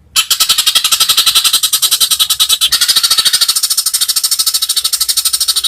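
Rapid, high-pitched rattling trill from a calling animal: an even train of about a dozen pulses a second that starts abruptly and keeps going without a break.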